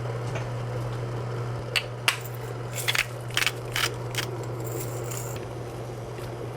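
Kitchen handling sounds: an irregular run of sharp clicks and crackles, then a short hiss, over a steady low hum.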